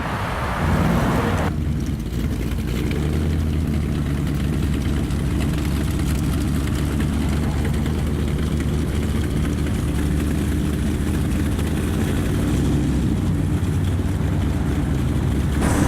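A 1957 Chevrolet stepside pickup's engine running with a steady low drone, heard from inside the cab while driving. A higher hiss drops away about a second and a half in.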